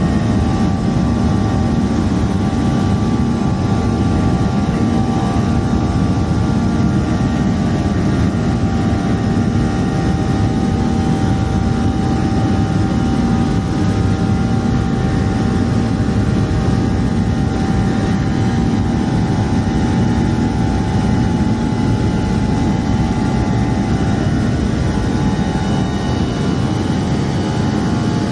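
Airliner's jet engines running steadily at high power during takeoff and climb, heard from inside the cabin as a loud, even rumble with several steady whining tones over it.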